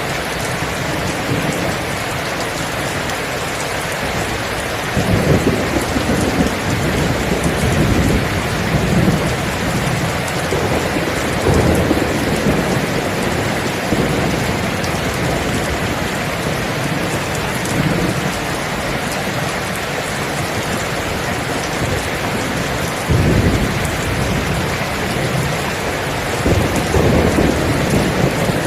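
Steady heavy rain falling, with rolls of low thunder rumbling in and out several times, the strongest about five seconds in and again near the end.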